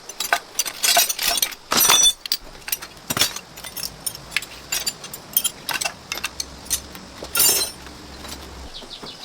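Metal tools and parts clinking and clanking in quick, irregular knocks, with a few louder clanks about two seconds in and again near seven and a half seconds.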